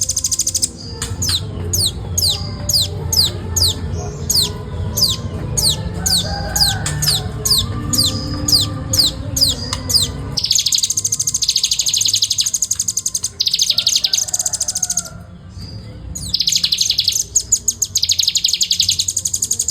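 Velvet-fronted nuthatch singing. For about ten seconds it gives a steady run of high, quickly falling notes, two or three a second, then switches to very fast, dense trills in several bursts with short pauses between them.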